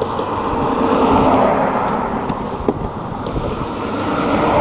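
Road traffic passing close by: the rush of tyres and engines swells and fades twice, peaking about a second in and again near the end.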